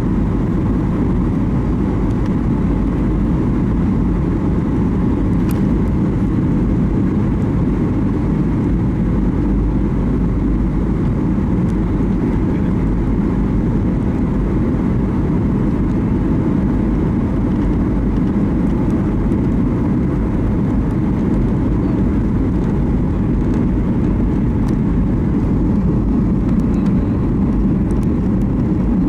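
Steady rumble of an airliner's engines and airflow heard inside the passenger cabin during the descent before landing, with a faint steady hum above it.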